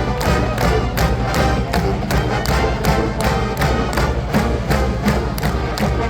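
Massed marching band playing, with a steady drum beat of about four strokes a second.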